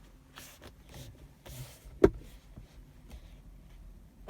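Factory centre armrest of a 2019 Hyundai Solaris being pressed, giving faint creaks and one sharp click about two seconds in, with another sharp knock near the end. The creak comes and goes and is only mildly present at this point.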